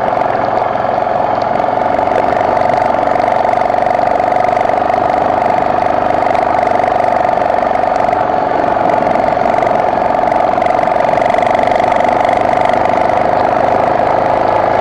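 BMW F650GS motorcycle engine running at a steady, unchanging pace.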